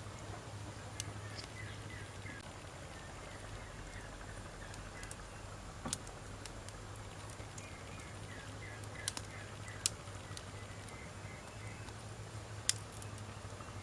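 Wood campfire burning with sparse, sharp crackles and pops, several seconds apart, over a low steady hiss. Faint chirping runs in the background in two stretches.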